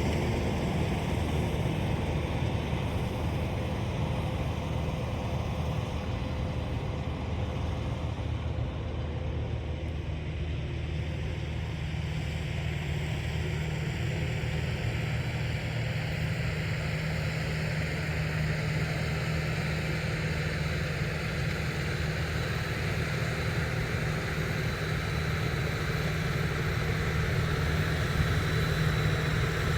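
Tractor engine running steadily at constant speed, a continuous low drone.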